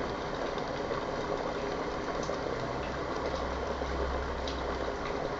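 Electric kettle at a rolling boil: a steady rushing, bubbling noise. A low steady hum comes in about halfway through.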